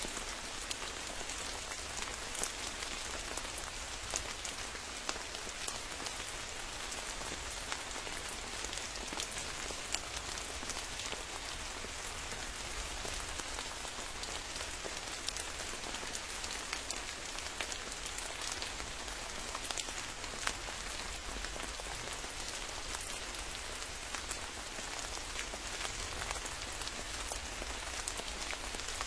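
Steady rain falling, with many separate drops ticking sharply and close against a constant hiss of rainfall.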